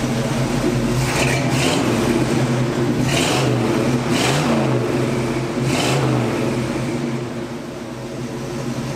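Square-body Chevrolet truck's engine idling steadily on its freshly tuned 750 Holley four-barrel carburetor, heard from the tailpipe end, with a few short throttle blips in the first six seconds.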